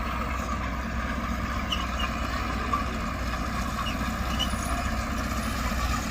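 Heavy earthmoving machine's engine running steadily under load, a continuous low drone with no breaks.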